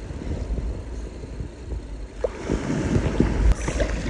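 Wind buffeting the microphone with a steady low rumble, over shallow surf washing at the shore; the water noise grows louder and more splashy about halfway through.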